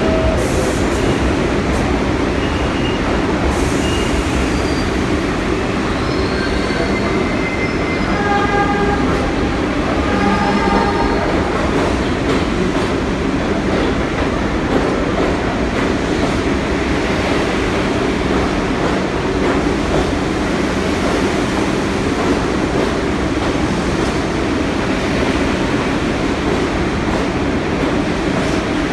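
New York City Subway train running through the station with a steady loud rumble of wheels on rails, and a few short high-pitched tones at several pitches about six to eleven seconds in.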